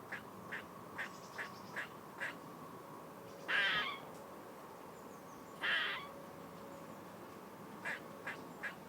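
Animal calls in outdoor nature ambience. A string of short, sharp calls is followed by two longer, harsh calls about three and a half and five and a half seconds in, then more short calls near the end. A faint steady high tone runs underneath.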